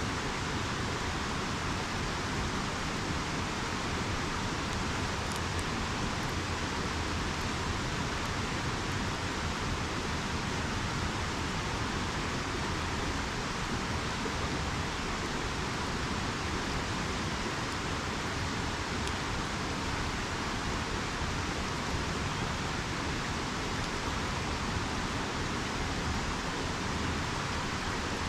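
Steady rushing of a river flowing, an even, unbroken hiss of water, with a few faint ticks from a campfire about five seconds in.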